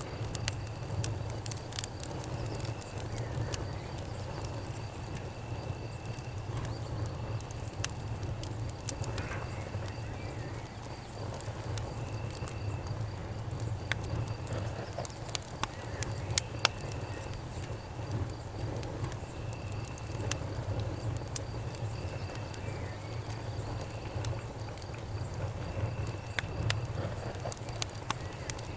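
Campfire crackling with scattered sharp pops over a low steady rumble, while an insect call, crickets or cicadas, pulses on and off about every second and a half.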